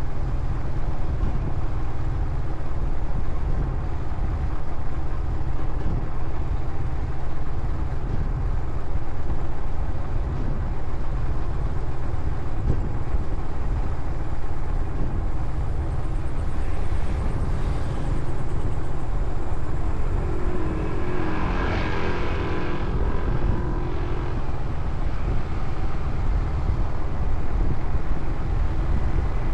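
Steady engine and road rumble from a moving motorcycle, with wind on the microphone. About two-thirds of the way through, a brief pitched tone with wavering overtones rises over it for a few seconds.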